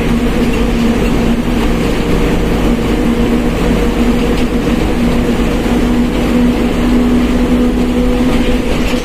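Mercedes-Benz OF1721 BlueTec 5 bus driving at a steady pace, its engine running over a steady whine from the differential.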